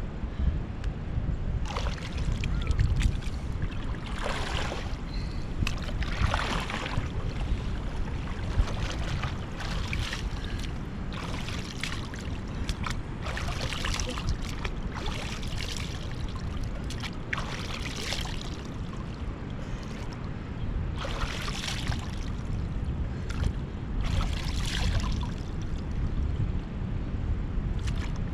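Water splashing and sloshing in irregular bursts every second or two, over a steady low rumble of wind on the microphone.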